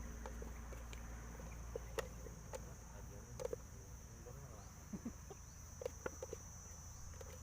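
Insects, likely crickets, droning steadily on one high note, with a few short clicks and knocks scattered through.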